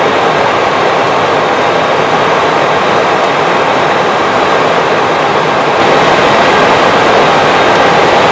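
Steady rushing cockpit noise on an Airbus A320 flight deck in flight: airflow and engine noise with faint steady tones, becoming a little louder about six seconds in.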